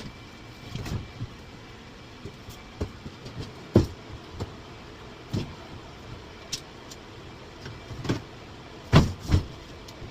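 Scattered knocks and thumps from hand work tearing out a boat's galley fridge, over a steady background hiss. The loudest knock comes about four seconds in, and a close pair of knocks comes near the end.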